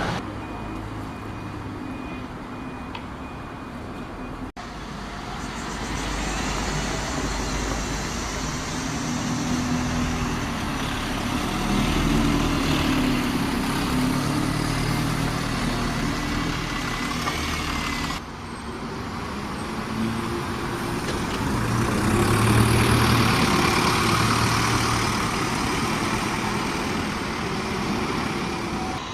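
Diesel bus engines running and moving past, rising and falling in loudness, in three short stretches that cut off abruptly into one another.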